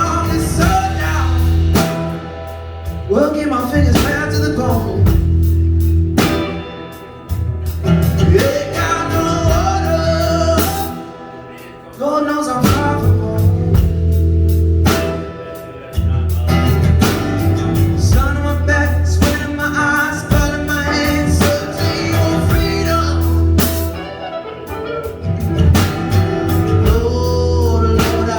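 Live band playing a slow blues-gospel song: bass guitar, drum kit, keyboard and electric guitar, with a bending lead melody over a steady beat of about one strong hit every two seconds.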